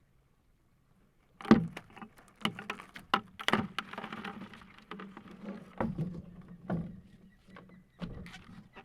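Irregular sharp knocks, rattles and scraping as a crab trap is shaken and handled to get out a crab that won't come loose. The knocking starts about a second and a half in.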